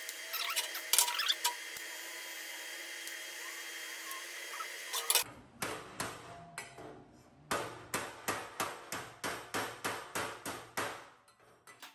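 Steady hiss for about five seconds, with a few clicks near the start. Then a hammer strikes steel repeatedly, about two blows a second, stopping shortly before the end.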